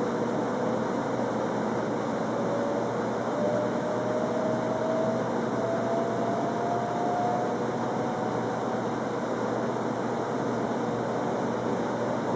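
Inside a JR West 300 series Shinkansen car as it gathers speed: steady running noise, with a faint whine from the traction motors rising slowly in pitch and fading out about three-quarters of the way through.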